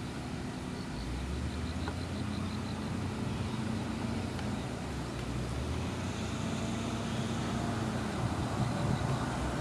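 Heavy construction machinery with diesel engines running steadily, a low drone, with a faint rapid high-pitched beeping from about one to three seconds in.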